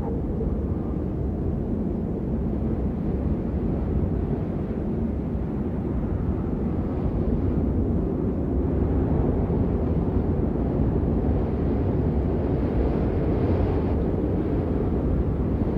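Steady rain, a deep, even noise with most of its weight low and little hiss on top, swelling slightly partway through.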